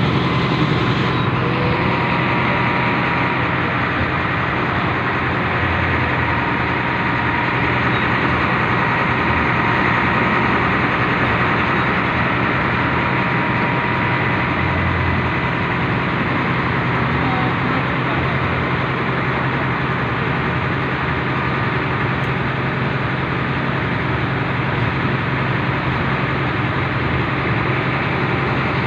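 Industrial freight locomotive travelling, with a steady engine hum and running noise that stay even throughout.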